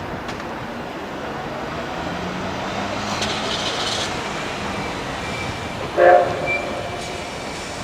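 Steam locomotive whistle giving one short blast about six seconds in, over the steady running noise of the train, with a brief hiss of steam about three seconds in.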